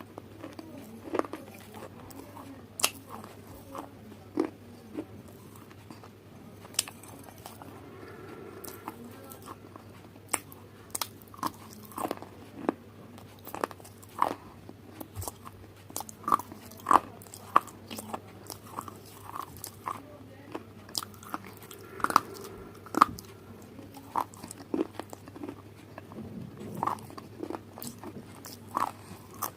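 Close-miked eating: a person biting and chewing crunchy food, a run of sharp, irregular crunches, some louder bites among quieter chewing.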